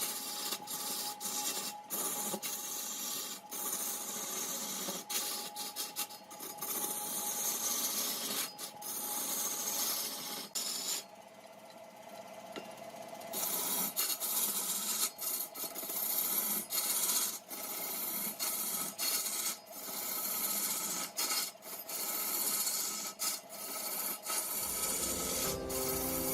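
Mahogany being turned on a large woodworking lathe: a cutting tool scraping shavings off the spinning wood, a continuous rasping hiss over a faint steady hum, briefly quieter about halfway through. Music comes in shortly before the end.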